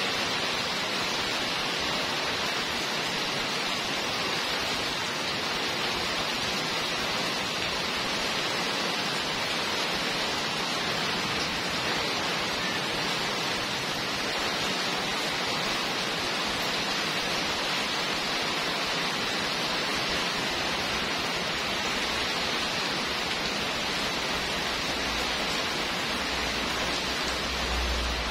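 Heavy rain pouring steadily onto a paved street and brick pavement, a dense even hiss. A low rumble builds near the end.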